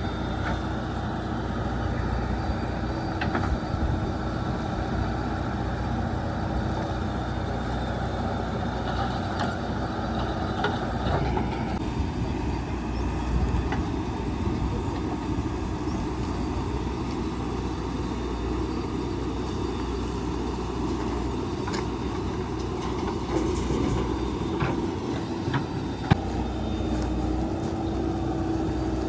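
Diesel engine of a JCB 3DX backhoe loader running steadily while loading soil into a dump truck; its note changes about eleven seconds in. A single sharp knock near the end.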